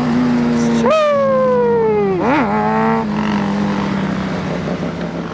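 Motorcycle engine running: the revs jump about a second in and slowly fall away, a quick throttle blip follows a little past two seconds, then the engine holds a steady note.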